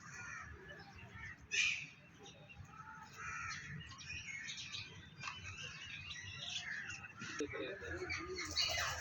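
Many birds calling and chirping together in a busy, overlapping chorus, with one louder call about one and a half seconds in.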